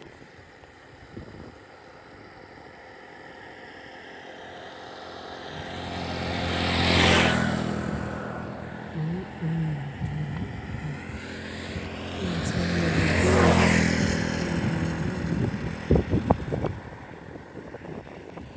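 Two motor vehicles drive past one after the other, each engine rising and then fading with a falling pitch as it goes by. A few sharp knocks come near the end.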